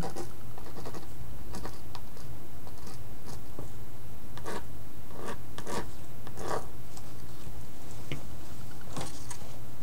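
Pen scratching short strokes and marks on paper, a series of brief scrapes that are busiest around the middle, over a steady low hum.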